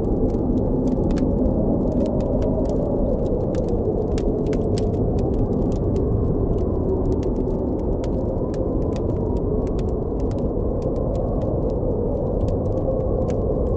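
Steady low rush of blizzard wind with a faint wavering howl, over frequent sharp crackles and pops of a burning campfire.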